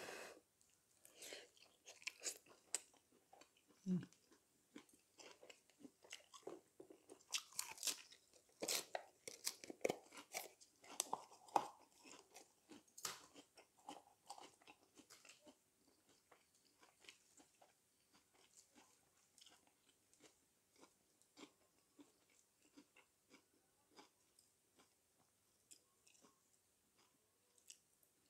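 Close-up chewing and crunching of a mouthful of spicy stir-fried chicken and vegetables: many small wet clicks and crackles, busiest through the first half and sparser later.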